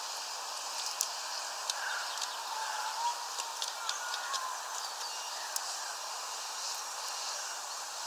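Small birds calling: faint short whistled notes and a scatter of sharp high ticks over a steady hiss.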